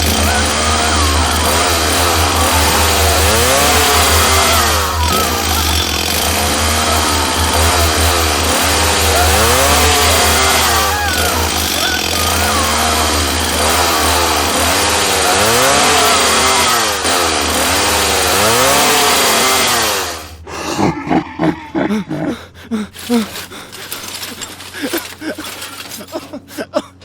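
A loud motor-driven machine running hard, its pitch swinging up and down about once a second over a steady low hum. It cuts off abruptly about twenty seconds in, and scattered short knocks and clatter follow.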